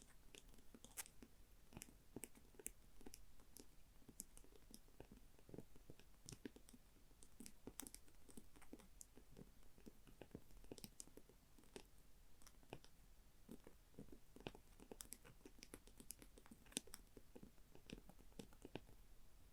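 Faint gentle tapping and scratching on a small object: many soft, irregular clicks, several a second.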